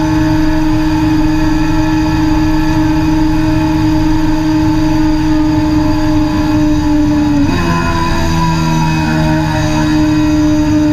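Sport bike's engine running hard at high, steady revs at speed on track. About seven and a half seconds in, the engine pitch steps up a little and holds.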